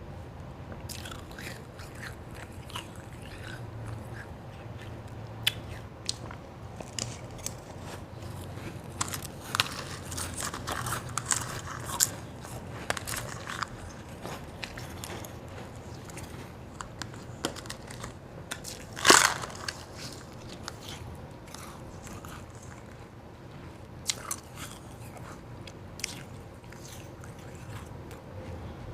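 A person biting and chewing crunchy white ice: scattered crisp crunches, with one loud crunch about two-thirds of the way through.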